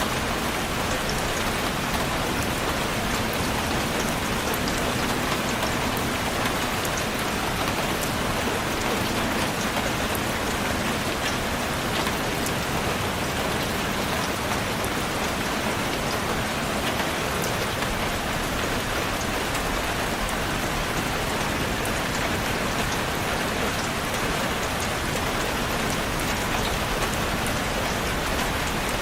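Steady rain falling on a surface, a continuous even hiss with many fine drop ticks.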